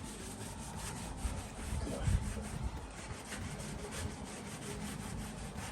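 A petrol-soaked cotton rag being scrubbed back and forth over a truck's steel firewall, wiping off underseal residue in repeated hard strokes.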